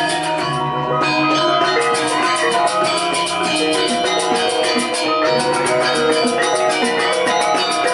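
Balinese gamelan music: metallophones playing a fast, even pulse of ringing struck notes over sustained lower tones.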